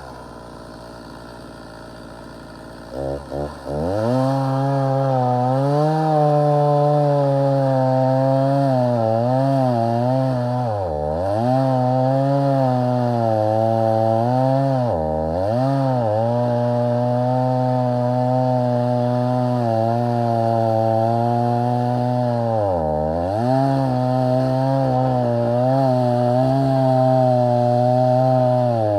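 Stihl MS290 two-stroke chainsaw ticking over quietly, blipped a few times about three seconds in, then held at high revs cutting dry wood, its engine note dipping sharply and recovering several times.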